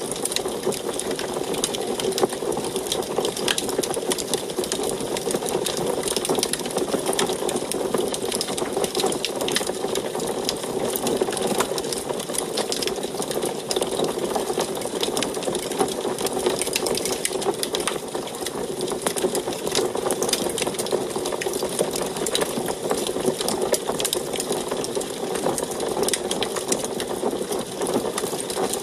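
Wood fire crackling in an antique wood stove: a dense, steady run of small pops and clicks over a constant low rush.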